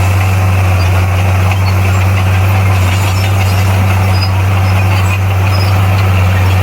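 Diesel engine of a Komatsu D58P bulldozer running at a steady speed, a constant low drone over the rattle and noise of the working machine.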